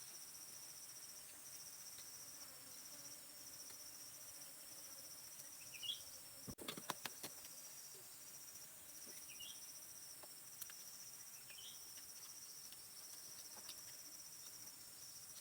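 Faint, steady chorus of crickets trilling, with three short rising bird chirps and a brief cluster of sharp clicks about halfway through.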